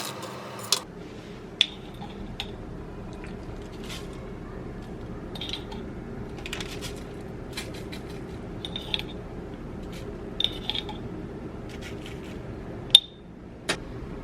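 Kitchen food-prep handling sounds: scattered light clinks and taps of utensils and dishes, several with a short metallic ring, over a steady low background hum. A louder clack comes near the end, after which the background hum drops.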